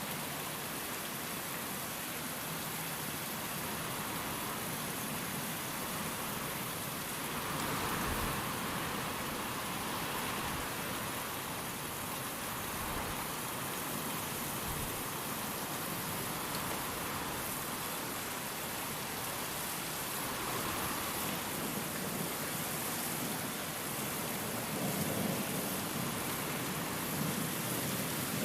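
Steady heavy rain falling, a dense even hiss that swells for a few seconds about a third of the way in. Near the end a low rumble of thunder begins to build.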